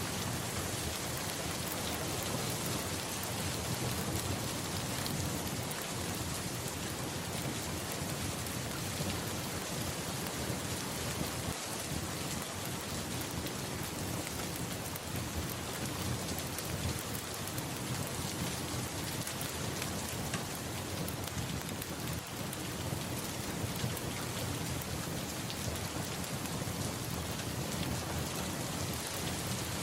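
Steady rain with a low, continuous rumble of distant thunder underneath.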